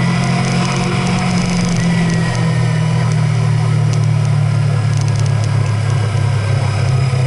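Vehicle engine running steadily under way, a low drone whose pitch drops slightly about two seconds in.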